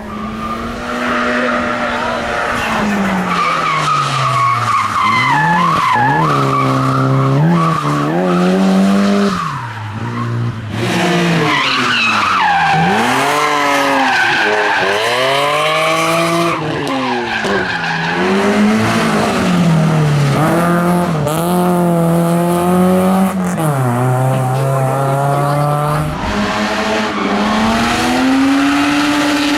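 Race car engine being revved hard on a hillclimb course, its pitch climbing steeply and dropping again many times as it shifts gears and lifts off for bends. At times the tyres squeal.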